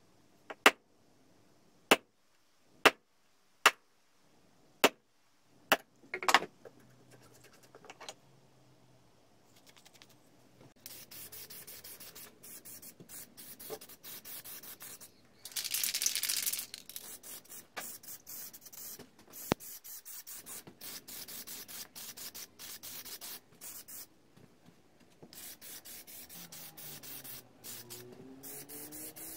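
A run of sharp single clicks about once a second, then hand sanding: rapid back-and-forth rubbing strokes on a part of the rusty grinder, with a louder hissing stretch about halfway through.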